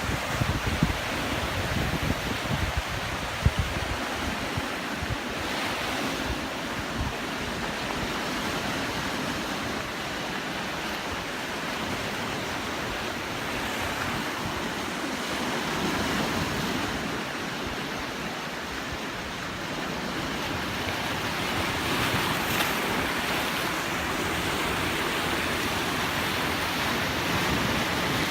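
Sea surf washing against a rocky shore, a steady rush that swells and eases every several seconds. Wind buffets the microphone with low rumbles in the first few seconds.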